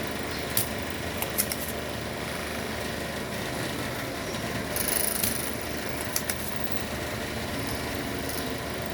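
Small tools being handled during bench work on an amplifier board: a few sharp clicks near the start and again just after six seconds, and a brief high hiss about five seconds in, over a steady background hum.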